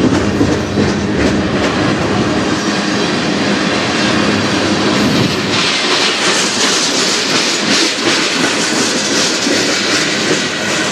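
Steel wheels of a passing freight train's cars, covered hoppers and boxcars, rolling close by with a clickety-clack over the rail joints and a steady rumble. About halfway through, a higher hiss comes in over the wheel noise.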